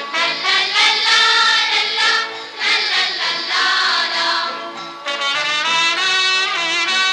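Children's song: a choir of young voices singing with instrumental backing, giving way about five seconds in to a brass passage.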